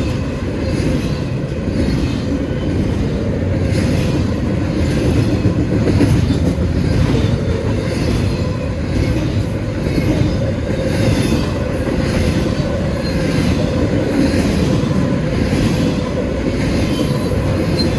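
Freight train cars rolling past: a steady rumble with repeated clicks of wheels over the rail joints and a faint, steady wheel squeal.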